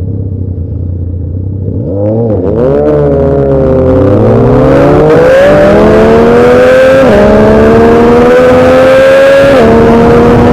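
Motorcycle engine idling, then revved about two seconds in and pulling away hard, its pitch climbing through the gears with two quick upshifts, the second near the end.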